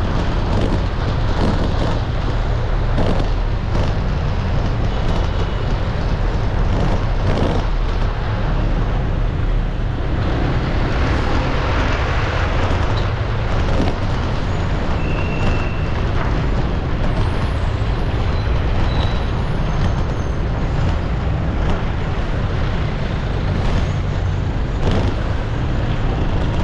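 Steady road traffic noise: the continuous din of passing cars, motorbikes and larger vehicles, strong in the low end, with a few brief high tones standing out near the middle.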